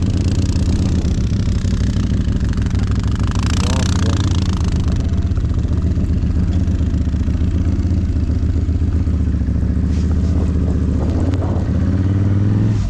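ATV engine running at a steady, held speed, with a brief rush of noise about three and a half seconds in; the engine note drops away at the very end.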